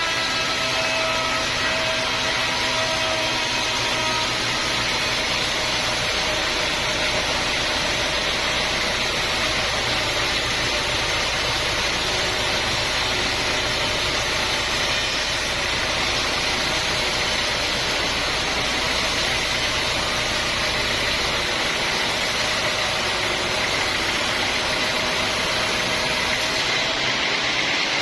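Sawmill machinery running steadily: a constant engine or motor hum under an even high hiss, with no breaks.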